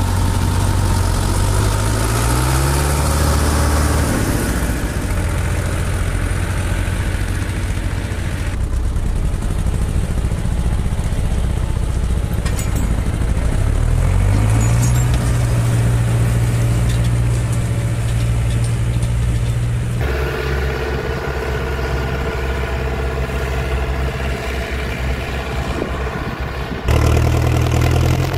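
Farm machinery engines running, heard in several shots cut one after another. The pitch climbs as the revs rise about two seconds in and again near the middle, and the sound changes abruptly a few times where one shot gives way to the next.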